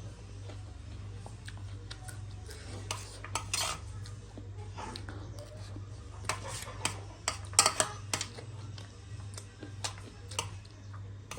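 Close-up eating sounds: cutlery clinking and tapping against a dish while pani puri and chatpate are eaten. The clicks come scattered, in a short cluster about three seconds in and a denser run past the middle, over a steady low hum.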